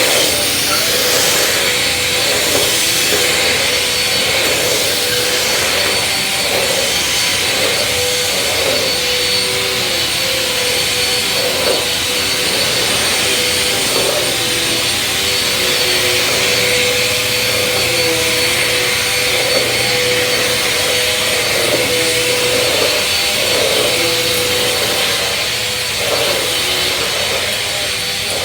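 Bissell vacuum cleaner running continuously: a steady motor whine over rushing air hiss. Its pitch wavers slightly every second or so.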